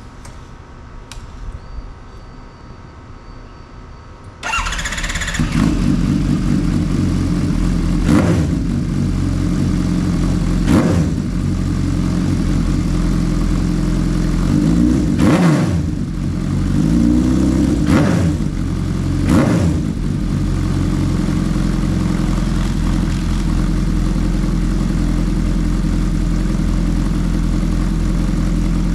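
Suzuki Hayabusa's inline-four engine, breathing through an SC Project titanium-carbon race exhaust, starting up about four seconds in. It idles with several quick throttle blips that rise and fall, then settles to a steady idle for the second half.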